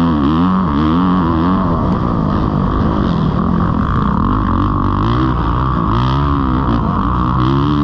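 Kawasaki KX450 dirt bike's single-cylinder four-stroke engine revving up and falling back again and again as the throttle is worked while riding a motocross track.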